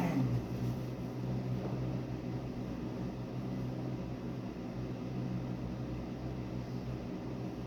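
Steady low mechanical hum of a running motor, with a short knock right at the start.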